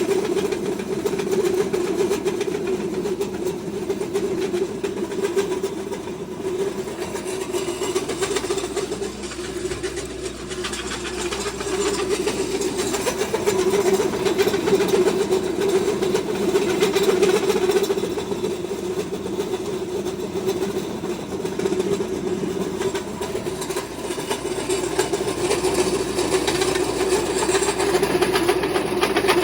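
Pellet feed mill running steadily while pressing mixed grain into animal-feed pellets: a continuous mechanical drone with small rises and dips in level.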